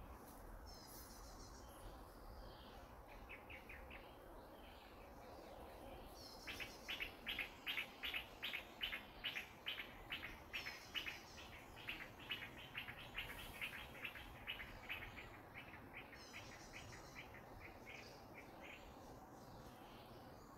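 Bird calling a long run of evenly repeated chirps, about three a second, for roughly ten seconds. Short, higher trills come in now and then, over faint outdoor background noise.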